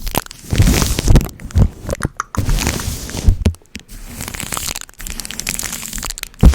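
Sticky tape being pressed onto and peeled off a microphone, close up: irregular crackling and tearing with brief pauses, and one sharp knock just before the end.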